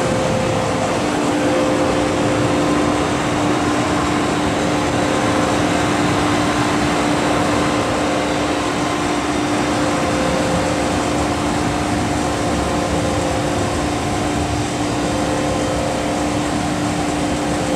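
MTR M-Train electric train running at a steady speed: a continuous rumble with a constant electrical hum, a lower hum tone setting in about a second in.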